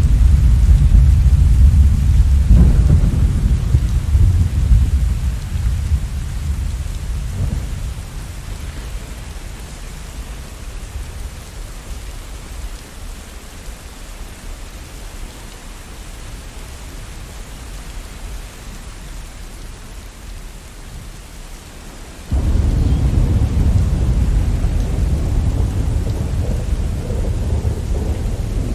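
Steady rain with rolling thunder. A heavy low rumble fades away over the first several seconds, leaving the rain alone, and then a new loud rumble of thunder starts abruptly about three quarters of the way through and keeps going.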